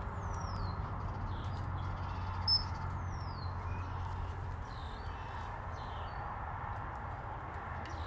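Steady low background rumble with a few faint, high, falling bird chirps, and one short sharp click about two and a half seconds in.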